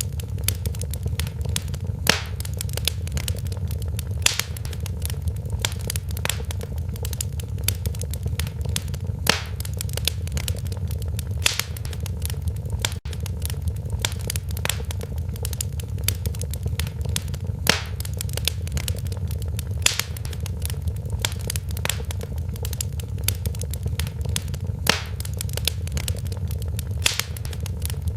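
Wood fire in a fireplace crackling: irregular sharp pops and snaps, some louder than others, over a steady low rumble of the flames.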